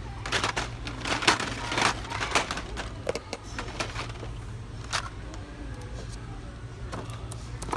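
Shop ambience: a steady low hum, with a cluster of clicks and rustles of handling in the first couple of seconds and a few more later, over faint background voices.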